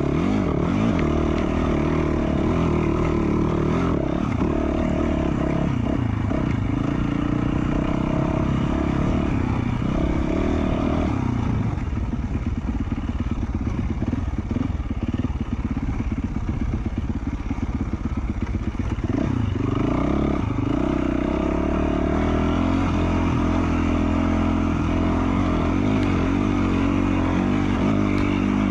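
2020 Yamaha YZ450F single-cylinder four-stroke dirt bike engine with an FMF Q4 slip-on exhaust, heard from the bike, its revs rising and falling with the throttle. For several seconds in the middle it drops to slow, choppy low-rev running before picking up again.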